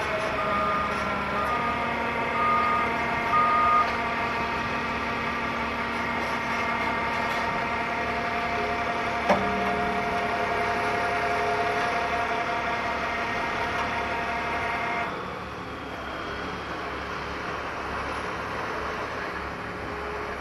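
Heavy diesel equipment running steadily, with a few short high beeps in the first few seconds and one sharp knock about nine seconds in. About fifteen seconds in the engine note drops and the machine runs on more quietly.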